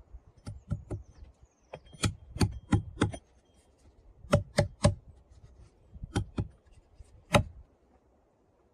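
Hand-tool blows on timber, such as hammer or axe strikes in cabin building: about fourteen sharp knocks in short quick runs of one to five.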